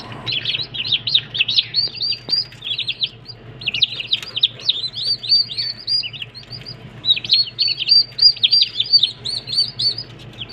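Young turkey poults peeping: a flock keeps up many short, high chirps overlapping one another. The calling runs in stretches, with brief lulls about three and six seconds in.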